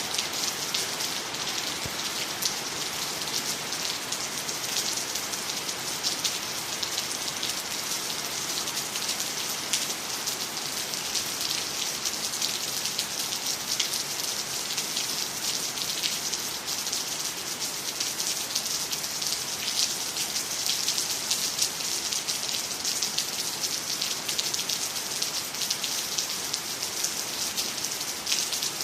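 Steady rain falling on water, trees and the ground, with a dense patter of individual drops.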